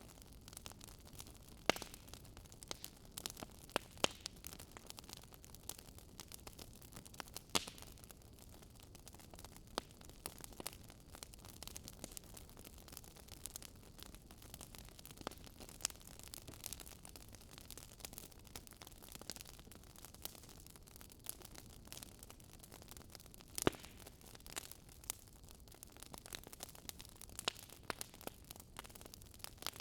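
Wood fire crackling in a fireplace: irregular sharp pops and snaps over a faint steady hiss, with a few louder pops.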